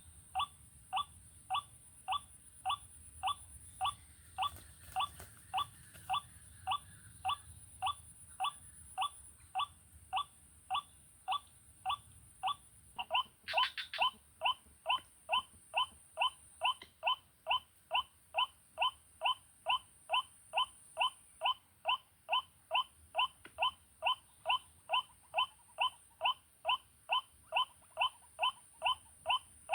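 White-breasted waterhen calls, a short rising 'kwak' repeated evenly about twice a second, played as a lure from an MP3 player. The calls get clearly louder about 13 seconds in.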